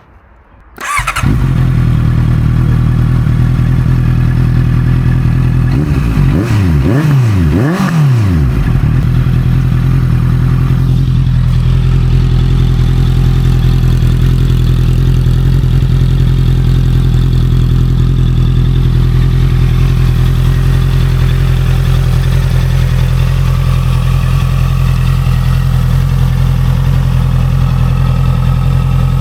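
Honda CB650F inline-four engine with an Arrow aftermarket exhaust starting about a second in, then idling steadily. Around six to eight seconds in it is revved in a few quick throttle blips, then settles back to idle.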